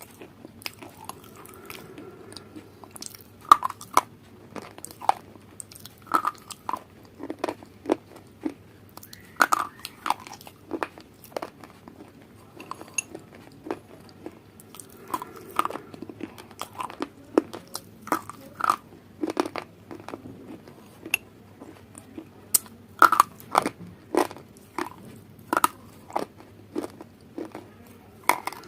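Close-up crunchy eating: a person biting and chewing crisp food, with many sharp, irregular crunches, a few each second.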